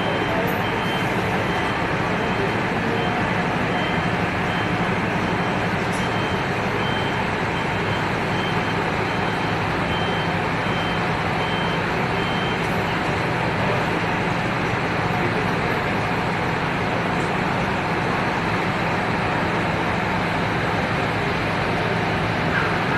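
Scania Irizar i8 coach running steadily, a low engine hum under constant noise. For about the first half a high electronic beep repeats evenly, a little more than once a second, then stops.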